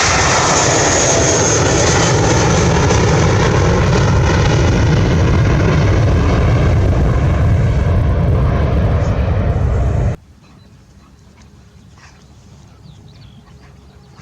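Airplane engines running loudly as an aircraft passes close by, with a falling whine in the roar. The sound cuts off suddenly about ten seconds in, leaving only faint outdoor background.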